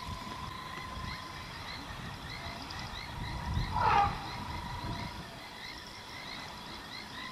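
A large animal's short, loud call about four seconds in, over a background of steady small chirping and a held thin whistle-like tone.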